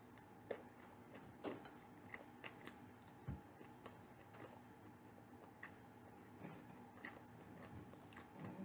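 Faint close-up chewing of soft baked food, with small scattered mouth clicks about once a second and one low thump a little over three seconds in.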